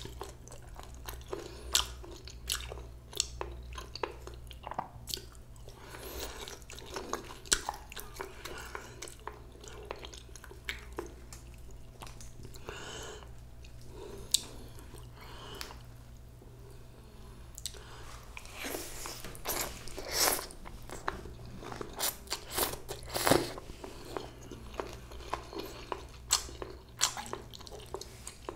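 A person chewing and biting bossam (boiled pork) close to the microphone: irregular crunches, bites and wet mouth clicks throughout.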